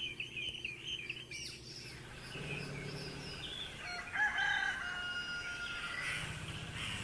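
Birds calling and singing: scattered chirps, then a series of drawn-out pitched calls, the loudest about four seconds in, over a low steady background hum.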